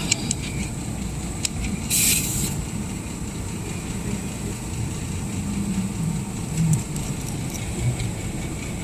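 A short hiss of air escaping from a tire valve stem about two seconds in, over a steady low rumble of traffic.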